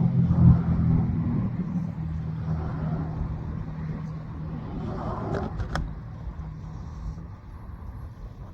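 A motor engine's low hum, loudest about half a second in and then fading away over several seconds, like a vehicle passing by. A few sharp clicks come around five seconds in.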